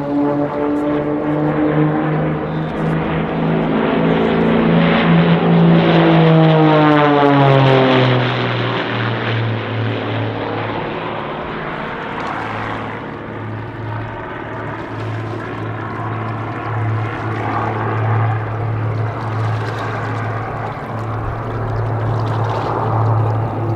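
Propeller-driven aerobatic aircraft passing overhead: a loud engine-and-propeller note that drops in pitch as it flies by about six to eight seconds in, then a steadier, quieter drone as it pulls away.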